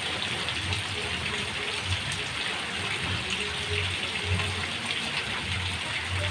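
Heavy rain falling steadily, a constant hiss, with irregular low thuds running through it.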